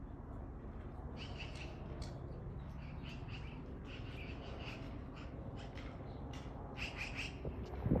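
Small birds calling: bursts of short, quick call notes starting about a second in, over a steady low background rumble.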